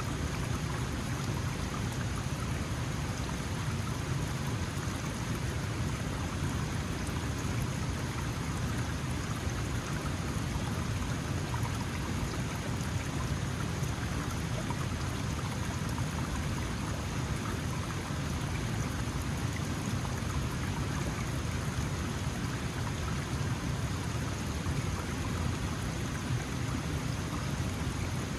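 Small mountain stream flowing steadily over rocks, a constant rushing and splashing of water.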